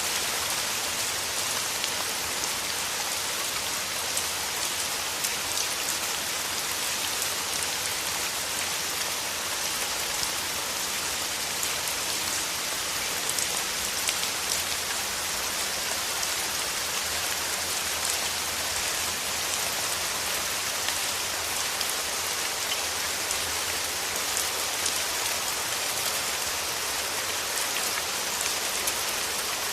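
Steady rain falling through forest trees: an even hiss of rain with many small drop ticks throughout.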